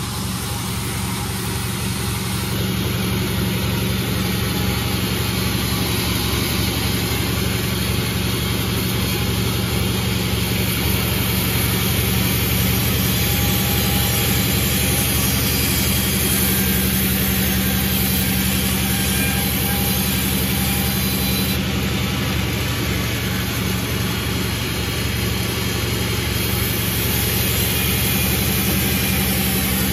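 Sawmill engine running steadily, with a continuous machine hum and rattle.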